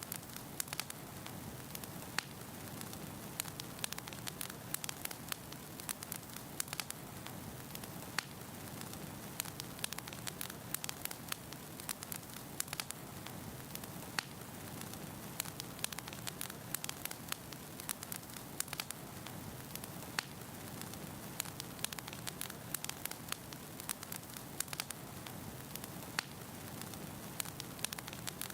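Firewood burning in a fireplace: a steady low noise of the fire with frequent sharp crackles and pops scattered throughout.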